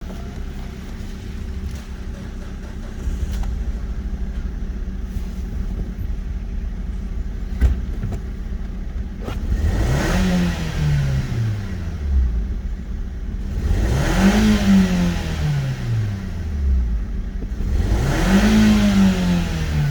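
Nissan Qashqai's 1.6-litre HR16DE four-cylinder petrol engine idling steadily, then revved three times, each rev rising quickly and falling back slowly to idle. It is being run as a test of a used engine's condition.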